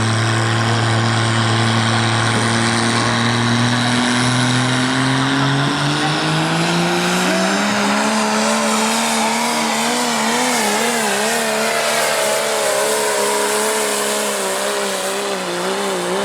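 Modified diesel pulling truck's engine under load on a pull, holding steady revs, then climbing in pitch for a few seconds and holding high revs with the pitch wavering rapidly up and down.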